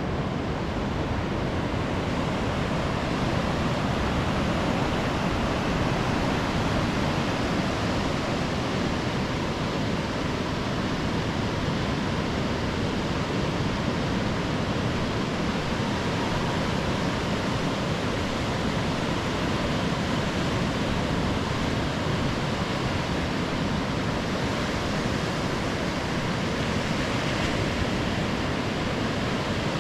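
Ocean surf washing onto a sandy beach, heard as a continuous, even rush with no single wave standing out.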